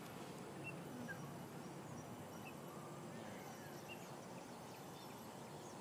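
Faint outdoor ambience: a steady low hum with a few scattered short, high bird chirps.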